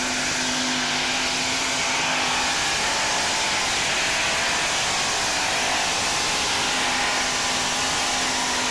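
Modified pulling tractor's engines running at high revs, a loud steady mechanical noise with faint held tones and no change in pitch.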